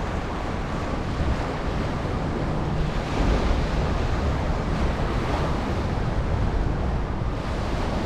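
Wind buffeting the camera's microphone in a snowstorm: a steady rushing noise with an uneven, deep low-end rumble.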